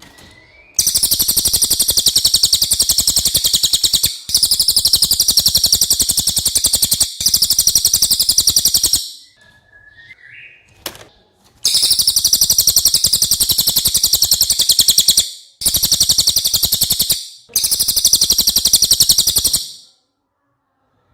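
Cililin songbird singing long, very fast high-pitched trills, six runs of one to four seconds each, with short breaks and a longer pause about halfway.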